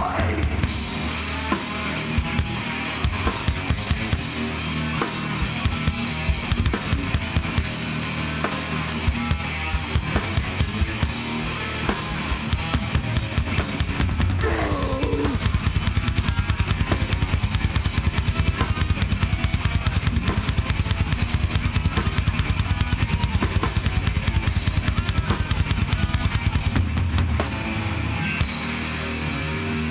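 A heavy live band playing an instrumental stretch with no vocals: a pounding drum kit of bass drum, snare and cymbals over guitars. The drumming gets faster and louder about halfway through.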